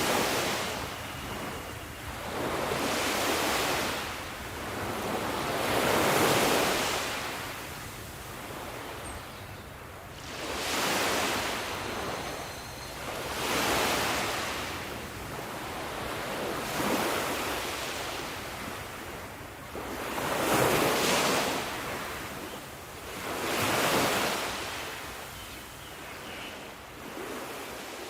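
Sea waves washing in one after another, each surge of surf swelling and fading roughly every three seconds, about nine in all.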